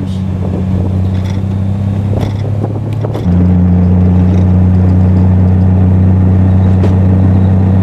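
Triumph TR6 straight-six running steadily through a Monza exhaust with resonators while the car is driven at about 2,600 rpm in second gear. A few sharp clicks come through in the first three seconds, and about three seconds in the engine sound jumps suddenly louder and then holds steady.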